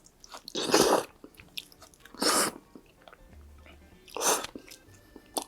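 Close-miked eating: three loud noisy bites about a second and a half apart, with small wet mouth clicks of chewing between them.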